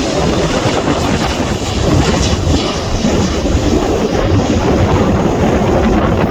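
Bombardier Dash 8 Q400's twin Pratt & Whitney PW150A turboprops at take-off power, a loud steady noise mixed with strong wind buffeting the microphone.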